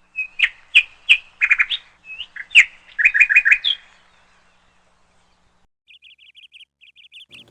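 Birds calling: a run of loud, sharp chirps and trills in the first four seconds, then a short pause, then a fainter rapid chattering series of notes near the end.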